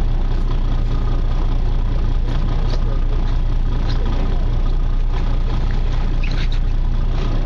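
Charter fishing boat's engine running with a steady low drone, heard on board.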